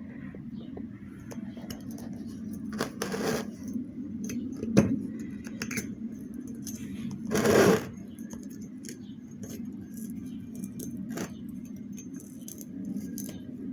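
Small metal clicks and scrapes of hand tools working on a centrifugal water pump's parts while its ceramic seal and rubber seal are taken out, with one longer, louder scrape about seven and a half seconds in.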